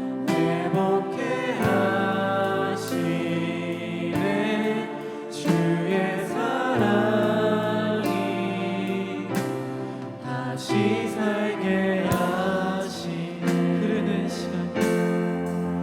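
Worship music: voices singing a slow Korean worship song over instrumental accompaniment.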